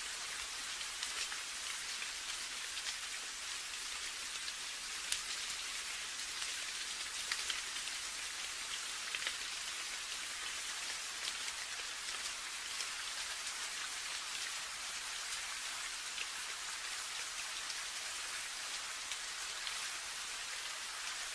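Steady rain falling, a continuous hiss with many scattered sharper drop hits.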